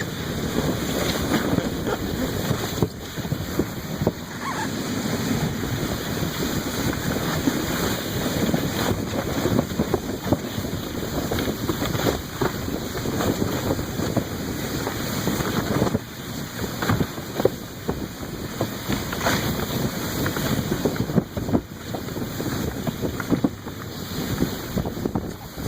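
Wind buffeting the microphone over a steady rushing, crackling scrape, as of a plastic tote sled being towed over snow.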